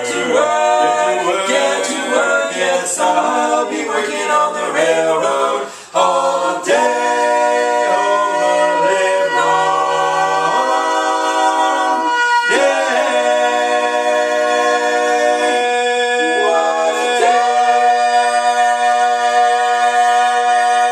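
Barbershop quartet singing a cappella in close four-part harmony. The chords move quickly at first, break off briefly about six seconds in, then turn into long held chords, closing on a sustained final chord.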